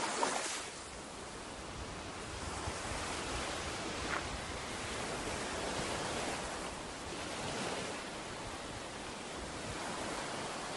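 Ocean surf washing onto a beach: a steady rush of waves, with a louder surge at the very start.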